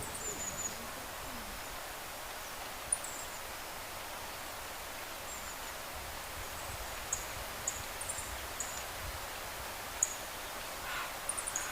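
Small birds giving short, very high-pitched calls, scattered every second or two, over a steady even hiss of wind, running water or both.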